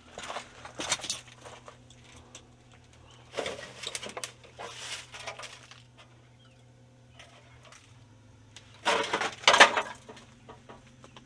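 Old rusty tin cans clattering and crunching as they are disturbed, in three bursts, the loudest about nine seconds in.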